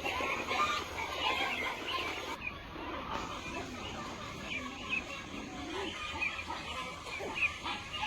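A flock of chickens clucking and calling, many birds at once.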